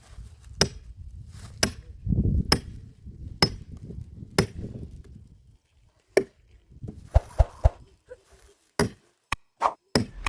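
Wood being chopped, sharp blows about once a second over a low rumble, then quicker, irregular knocks and cracks of wood in the second half.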